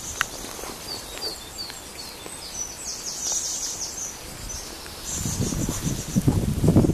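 Songbirds chirping and trilling in a run of short high notes over steady outdoor background noise. A louder low rustling with soft thuds comes in during the last two seconds.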